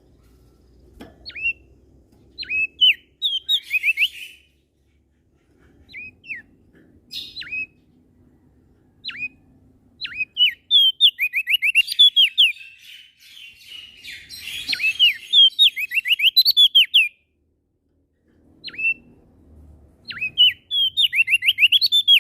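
A prenjak daun, a small songbird from Lombok, singing short, sharp whistled notes that slide downward. Some come singly and some in quick rapid-fire runs, with pauses between, and the longest, densest run falls around the middle.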